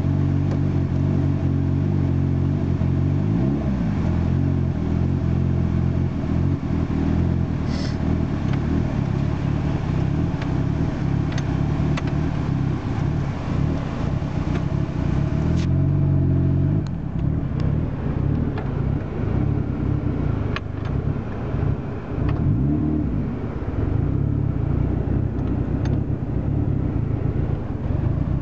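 Turbocharged SR20DE four-cylinder engine of a 1997 Nissan 200SX SE-R running steadily, the revs briefly rising and falling a few times.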